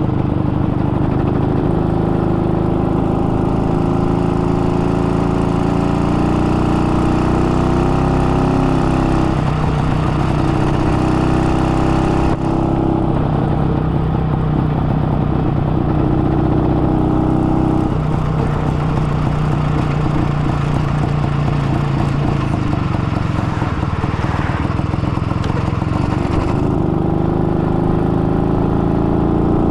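Izh-49 motorcycle's single-cylinder two-stroke engine running under way, its note stepping up and down in pitch several times as the speed changes. The engine is freshly rebuilt with a 75 mm oversize piston and is being run in at moderate speed.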